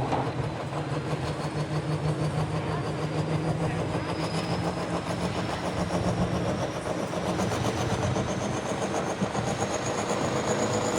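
Ford diesel pickup running hard with its turbocharger spooled up: a steady engine note under a high turbo whine that climbs slowly in pitch.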